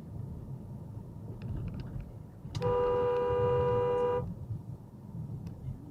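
Car horn held in one steady honk for about a second and a half, partway through, over a steady low rumble of a car driving.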